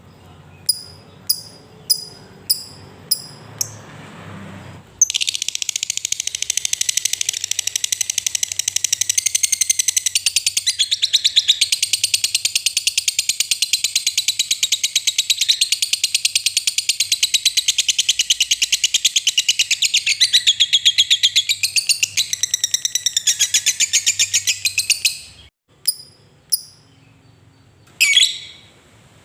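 Lovebird calling: a few sharp single ticks about a second apart, then about five seconds in a long unbroken rapid chattering trill (the 'ngekek panjang') lasting about twenty seconds, ending with a few more ticks.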